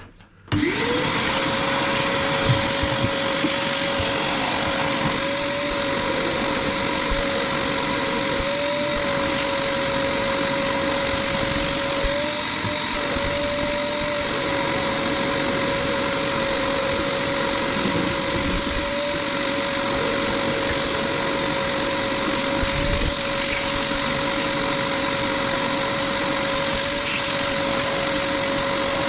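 Vacuum cleaner switched on about half a second in: its motor spins up to a steady whine and keeps running, the pitch dipping slightly now and then as the suction changes.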